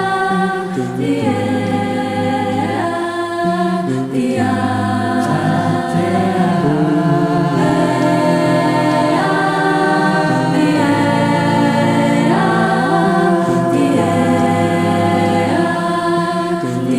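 A cappella vocal group singing in multi-part harmony, voices only, held chords shifting every second or two over a sung bass line.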